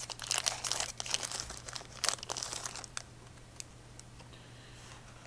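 Crinkling of a foil trading-card booster-pack wrapper being handled, dense for about three seconds, then stopping, leaving a few faint clicks.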